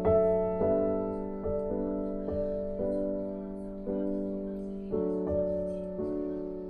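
Background music: a piano playing slow chords, each struck and left to fade before the next.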